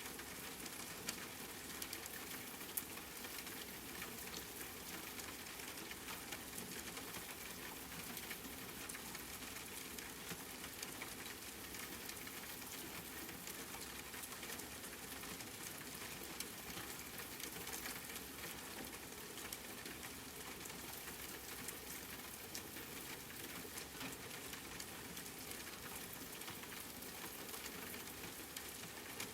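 Steady rain falling, an even hiss with many small drops ticking at random.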